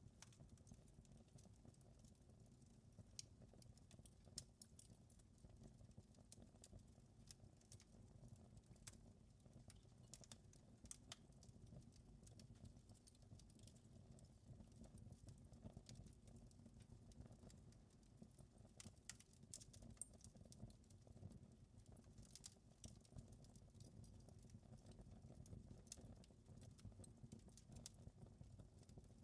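Faint crackling of a wood fire in a fireplace: irregular sharp pops and snaps scattered over a soft, steady low rumble.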